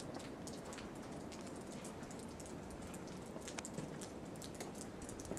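Faint snowstorm ambience: a steady low wind rumble with scattered light, irregular ticks and crackles.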